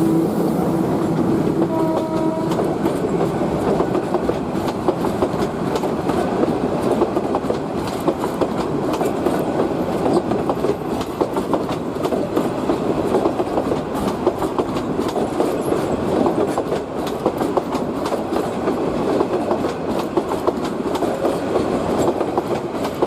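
Ramsagor Express passenger train running on the rails: a steady rumble of the coaches with a constant clickety-clack of wheels over rail joints.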